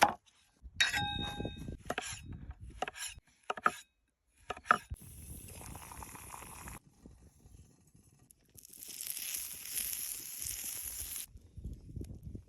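Sounds of a camp meal: a ringing glass clink about a second in, scattered knocks and rustles, then a steady hiss for about two and a half seconds that cuts off abruptly.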